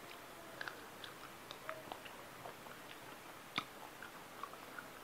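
A person chewing a mouthful of fish and rice close to a clip-on microphone: faint chewing with many small clicks, and one sharper click about three and a half seconds in.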